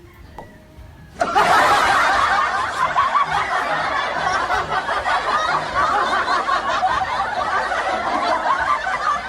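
Laughter sound effect, a group laughing and snickering. It starts abruptly about a second in and runs loud and dense until it cuts off at the end.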